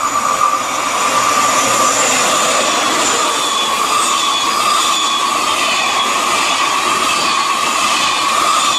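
SNCF TGV Duplex double-deck high-speed train passing close: a steady rush of wheels on rail with a high whine held throughout. The sound swells over the first second as the train arrives, then stays level as the cars go by.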